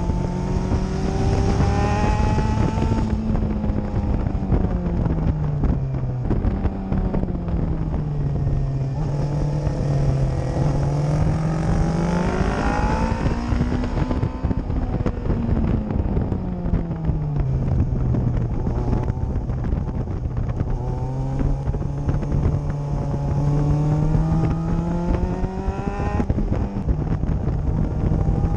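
Honda CBR600RR's inline-four engine, recorded onboard, revving up hard on the straights and dropping back under braking several times, its pitch rising and falling in long sweeps. A steady hiss of wind over the microphone runs underneath.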